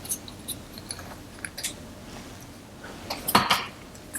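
Small plastic and metal camera accessories being handled and set down, with light clicks and clinks. The loudest cluster of clicks comes about three seconds in.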